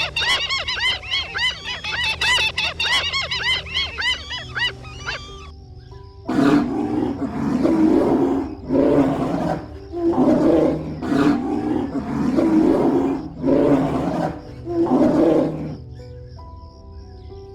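A fast run of high chattering animal calls, then six loud, rough roars from a large animal, each about a second long and a little over a second apart, over steady background music.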